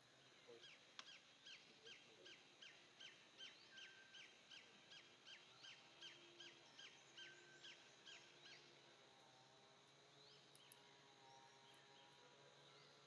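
A bird calling in a fast, even series of short, high, falling notes, about three a second, which stops after about eight seconds. Fainter, lower drawn-out whistles follow against quiet outdoor ambience.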